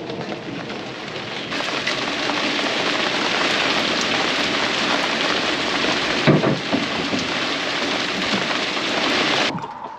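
Heavy rain pelting an aluminum boat and the river surface as a steady hiss. It grows louder about a second and a half in and cuts off near the end.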